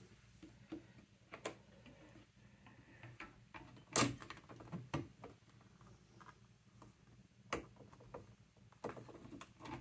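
Scattered light taps and clicks of a rubber letter stamp being moved and set down again while stamping, with the sharpest tap about four seconds in.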